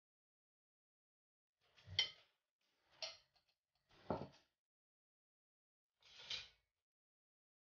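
Four short clatters of kitchen utensils being handled, about a second apart and then one more after a longer pause; the first is the loudest.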